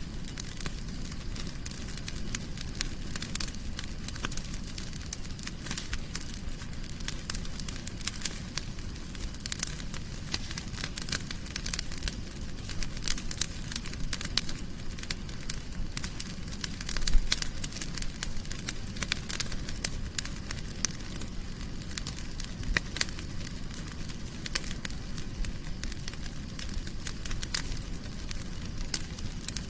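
Wood fire crackling in a fireplace: a constant scatter of small sharp pops over a low, steady rumble of the flames, with one louder pop about seventeen seconds in.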